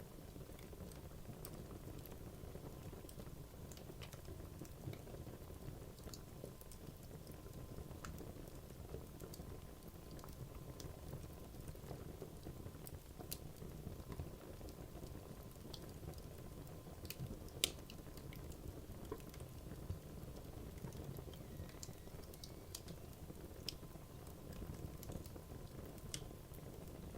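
Wood logs burning in a fireplace: a steady low rush of flame with frequent small crackles and snaps, the loudest snap about two-thirds of the way through.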